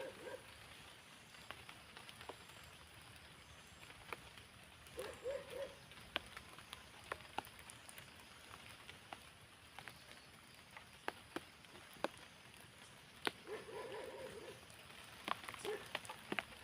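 Steady light rain hiss with scattered sharp drip taps of raindrops hitting surfaces. A short voice-like sound comes twice, about five seconds in and near the end.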